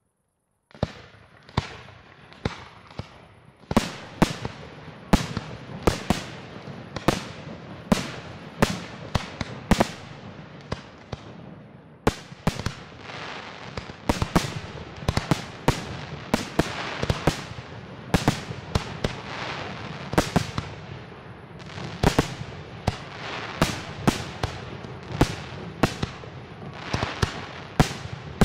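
Aerial firework shells bursting in a display: sharp bangs, one or two a second, with continuous crackling between them. It starts suddenly about a second in.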